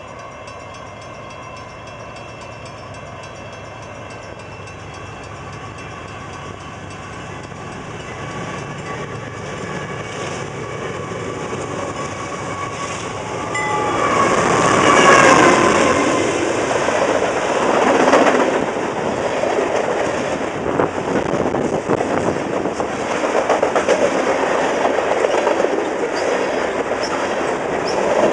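Freight train approaching and growing steadily louder. About halfway through, the locomotive's horn sounds loudly as it passes, its pitch dropping slightly, and then the freight cars roll by with a clickety-clack of wheels over the rail joints.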